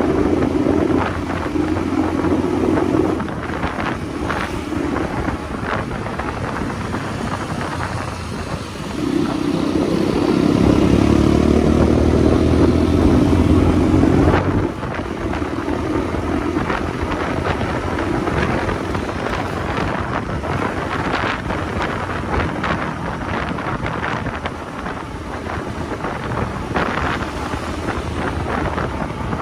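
Motorcycle engine running on the move, with wind rushing over the microphone. About a third of the way in the engine grows louder and pulls harder for about five seconds, then drops back suddenly, as when the throttle is rolled off.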